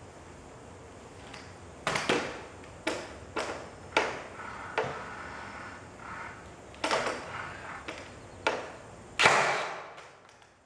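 An irregular series of about ten sharp knocks and bangs. The last one is the loudest, with a longer fading tail.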